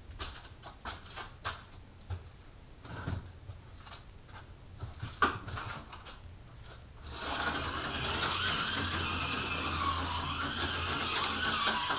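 Scattered light clicks and handling sounds, then, about seven seconds in, a small electric motor of an HO slot car starts running steadily on the track with a high whine.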